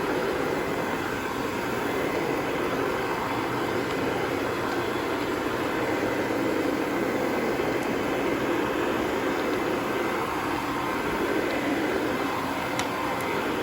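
Carpet cleaning machine running with a steady, loud drone.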